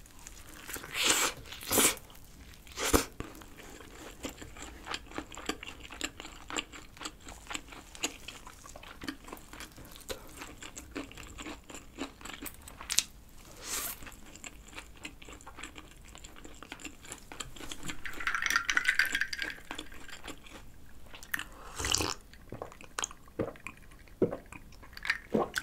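Close-miked eating of a fried chicken-breast burger: a few loud crunching bites in the first three seconds, then steady chewing with small wet clicks.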